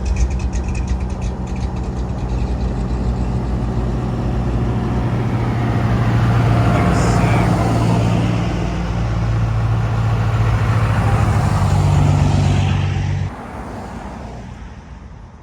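A car engine running close by with a steady low hum, its pitch shifting slightly, then stopping abruptly near the end.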